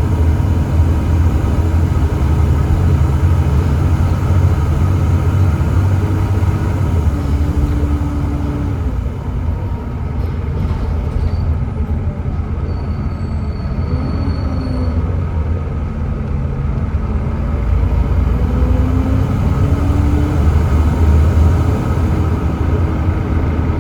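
Volvo B7TL double-decker bus under way: its 7.3-litre Volvo D7C diesel engine and ZF Ecomat six-speed automatic gearbox running with a steady low rumble, the engine note rising and falling as the bus accelerates and changes gear.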